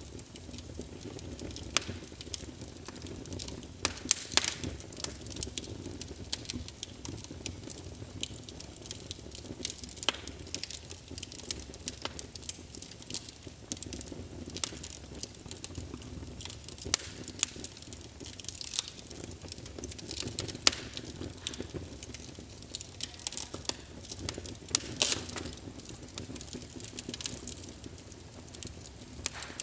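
Wood fire burning in a fireplace: a steady low rush of flame under irregular crackles and sharp pops from the burning logs.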